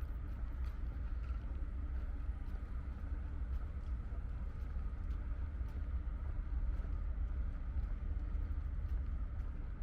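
Seaside promenade ambience: a steady, deep rumble of wind and sea, with a few faint ticks.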